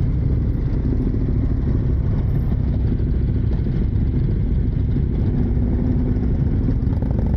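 Motorcycle engine running steadily, its sound sitting mostly low.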